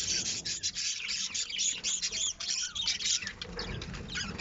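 Lovebirds chattering: a rapid, unbroken stream of high chirps and squeaks.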